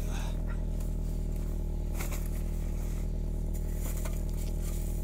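Car engine idling steadily, with a few soft rustles and knocks over it.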